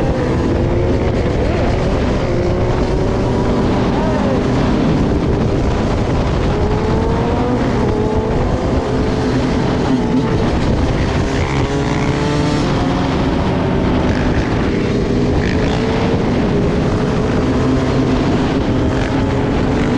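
Motor engines running steadily, their pitch drifting slowly up and down.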